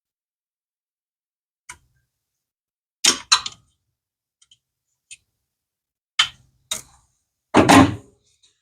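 Hand tools and metal engine parts clinking and knocking, a series of about seven separate sharp clicks with quiet between them; the loudest, a longer clatter, comes near the end.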